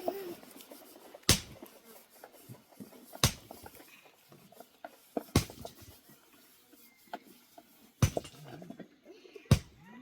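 A run of five sharp knocks or strikes, roughly two seconds apart, with faint handling noise between them.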